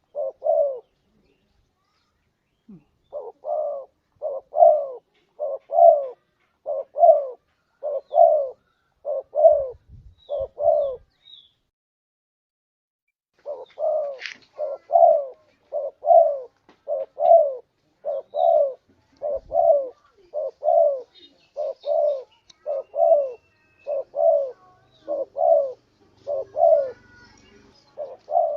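Spotted dove (tekukur) cooing: a long series of low hooting coos, mostly in pairs. The series pauses for a couple of seconds near the start and again a little before halfway.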